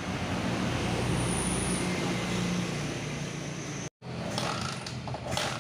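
Motorcycle engine running steadily with a low hum. The sound cuts off about four seconds in and gives way to clicking mechanical noise over a low steady tone.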